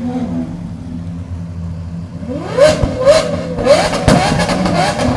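Supercar engine free-revved while stationary: it settles near idle, then from about two seconds in is blipped repeatedly in quick succession, each rev rising and dropping back.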